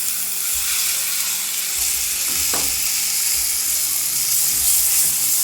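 Bell peppers frying in hot oil with onions and spices in a pan, a steady sizzle, with one short knock about halfway through.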